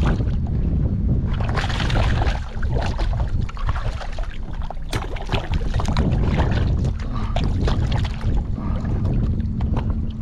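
Wind rumbling on the microphone, with water splashing and lapping irregularly against a kayak's hull.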